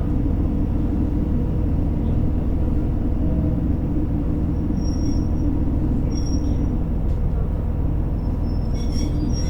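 Steady low rumble of a JR Hokkaido H100 diesel-electric railcar, heard from inside the cabin, with a faint steady hum and a few light ticks near the end.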